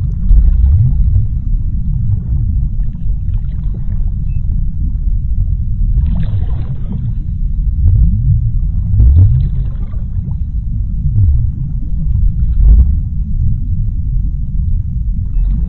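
Underwater sea ambience: a steady deep rumble, with a few faint, brief hissy bursts laid over it about six, nine and thirteen seconds in.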